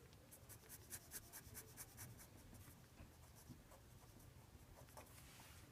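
Faint scratching of a pen writing and drawing lines in quick short strokes, busiest in the first couple of seconds and then only now and then.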